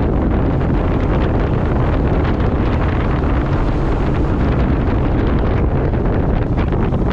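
Steady, loud wind buffeting the microphone, as on a fishing boat running fast across open water.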